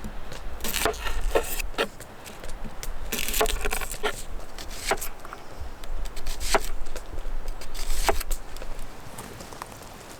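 Knife chopping tomatoes and bell peppers: an irregular series of sharp knocks.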